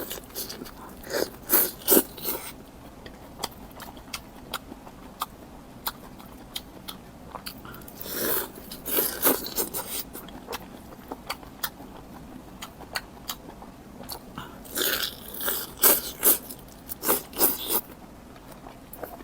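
A person biting and chewing crunchy food close to the microphone, in three bursts of loud crunches with softer scattered chewing clicks between them.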